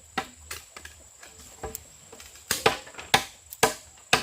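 Chopping into wood with a blade: a few light strokes, then from about halfway a steady run of sharp chops about two a second.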